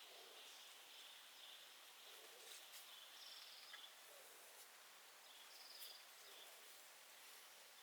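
Faint insects calling: a steady pulsing trill with a few short, higher trills over a soft hiss.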